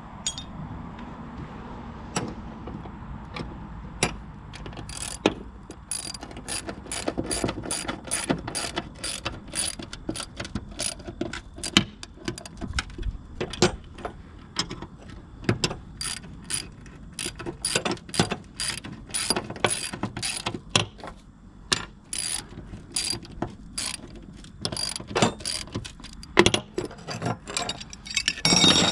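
Ratchet wrench clicking in quick runs, with short pauses, as the bolts holding new bearings on a finish mower are tightened.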